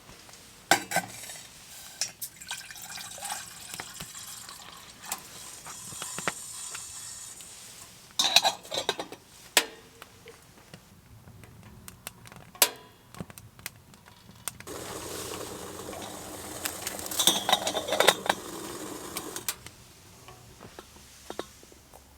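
Making a mug of hot chocolate with water boiled on the wood stove: a spoon and cookware clink sharply now and then, and about fifteen seconds in hot water is poured for a few seconds.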